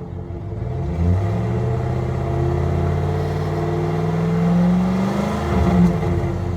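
A 1500 pickup's engine revved through its exhaust, still fitted with the muffler and catalytic converters: the pitch climbs steadily for about four seconds, falls back, then gives one short blip near the end.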